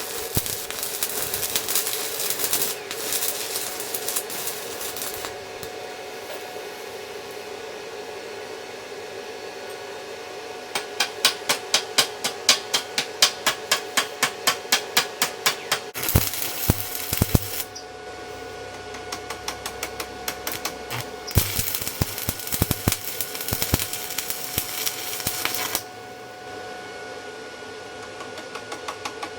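Stick-welding arc crackling and sizzling with 7018 electrodes in three runs, the longest at the start and a shorter one about two-thirds through, over a steady electrical hum. Between the runs, a long stretch of sharp, regular ticks comes at about four or five a second, and more ticks come near the end.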